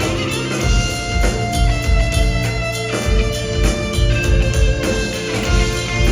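Live band music with guitar over a steady beat.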